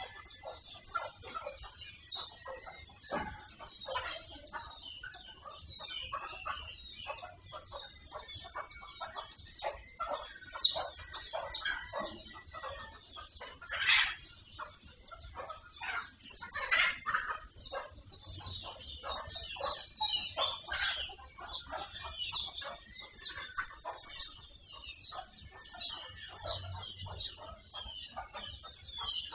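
Birds chirping: a dense, continuous run of short high calls, a few of them louder than the rest.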